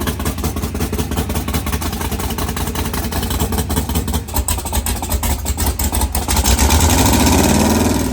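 LS-swapped limousine's twin-turbo V8 running loudly, then rising in pitch and getting louder over the last two seconds as it revs up.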